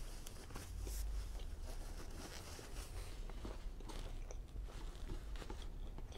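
Close-miked chewing of a chicken fajita with peppers and onions: irregular small wet clicks and smacking mouth sounds.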